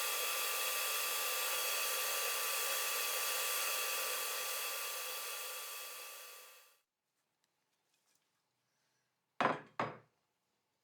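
A small electric motor with a fan runs steadily with a rushing, hissing noise and fades out about two-thirds of the way in. Near the end come two sharp knocks, about half a second apart.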